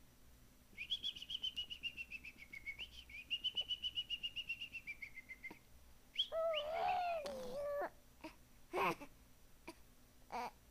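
A bird trills rapidly and high for about five seconds. Then a little girl gives a drawn-out whining cry that rises and falls, followed by two short coughs near the end.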